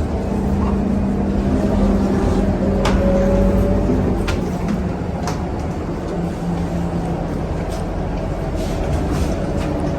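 Scania K230UB city bus heard from inside the cabin: a steady engine and road drone whose pitch drops slightly about four seconds in, with a few sharp rattles or clicks.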